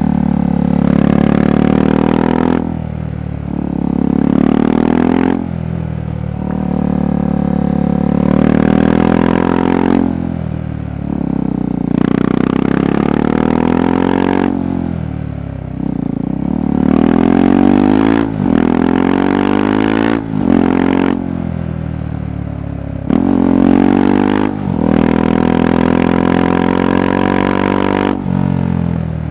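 KTM 390 Adventure's single-cylinder engine and exhaust under way, repeatedly climbing in pitch as it accelerates, then dropping sharply at gear changes or as the throttle closes, about ten times.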